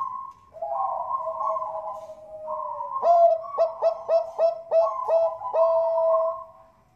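Zebra dove (perkutut bangkok) song: a rolling, warbling coo, then from about three seconds in a run of about seven short, clipped coo notes, fading out just before the end.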